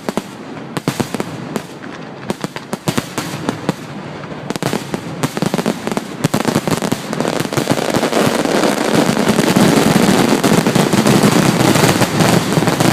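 Fireworks finale barrage: separate bangs at first, thickening about six seconds in into a dense, continuous rattle of reports that grows louder.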